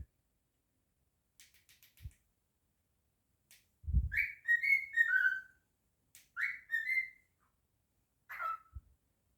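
Cockatiel whistling a short tune in three phrases, its notes sliding downward, after a few faint clicks. Soft low thumps come about two and four seconds in and near the end.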